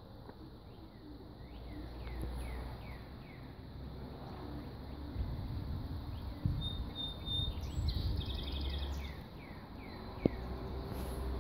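A bird calling outdoors: a run of short downward-slurred chirps, about three a second, early and again later, with a brief high trill near the middle, over a low rumble. A single sharp click near the end.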